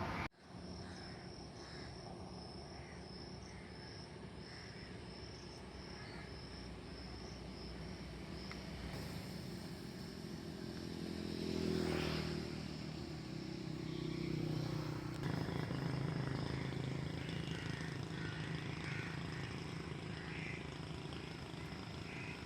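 A motor vehicle, most like a motorcycle, passes by: its engine grows louder, is loudest about twelve seconds in, then fades. Faint, repeated high chirping sounds behind it.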